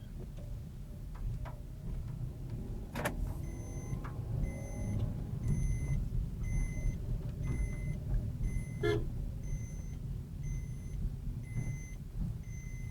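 Car running, heard from inside the cabin as a steady low road and engine rumble. About three seconds in there is a click, and from then on an electronic warning beep repeats about every 0.7 seconds.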